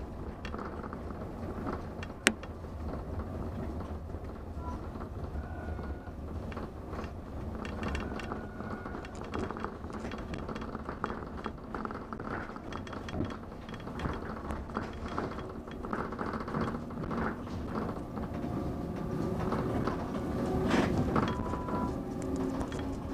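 Mont Blanc Express electric train running, heard from inside the carriage: a steady rumble full of small rattles and clicks, with one sharp click about two seconds in and a few brief squeaks.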